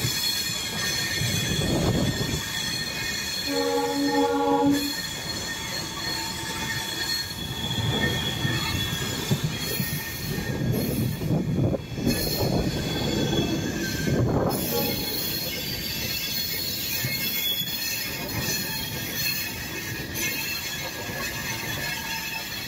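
Train running on the rails with steady high-pitched wheel squeal over a swelling rumble, and one short horn blast about four seconds in.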